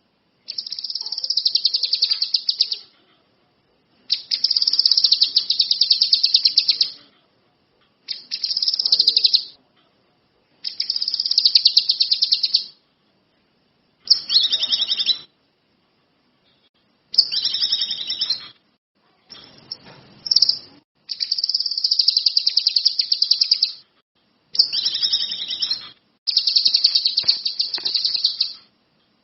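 Songbird singing a string of fast, buzzing trilled phrases, high-pitched. Each phrase lasts one to three seconds, with short pauses between, about ten phrases in all. It is a bird in full song ('gacor'), as played to train other songbirds.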